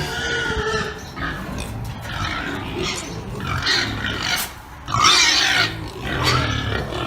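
Domestic pig calls: a run of short separate vocalisations, the loudest and highest about five seconds in.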